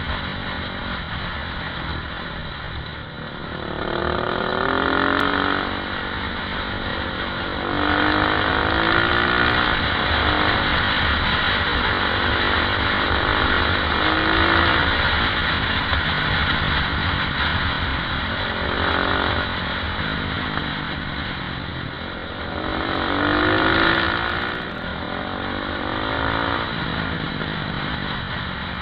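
KTM 520 EXC supermoto's single-cylinder four-stroke engine heard from on board, running hard and revving up through the gears about five times, easing off in between as the bike accelerates out of bends.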